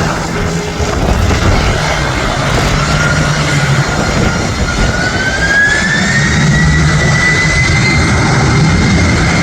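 Boeing 767-300ER freighter's twin jet engines spooling up for takeoff: a whine rises in pitch from a few seconds in, then holds steady over a loud rumble.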